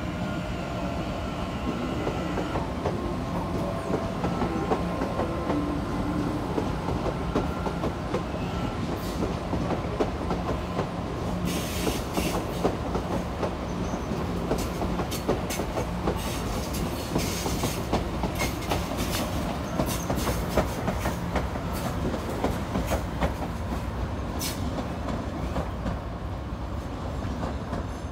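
Electric commuter train running through a station: a steady rumble with rapid, continuous clicking of wheels over the rails. Several brief high-pitched noises come about halfway through and again later.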